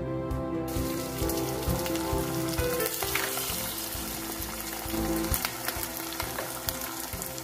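Minced chicken frying in a steel pot with chopped tomatoes just tipped in, sizzling steadily from about a second in, under background music.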